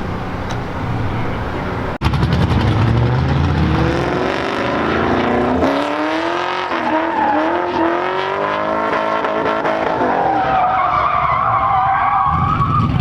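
Car engine through a new aftermarket exhaust, revving and accelerating with its pitch climbing and falling several times. A sudden break about two seconds in, and a higher wavering tone near the end.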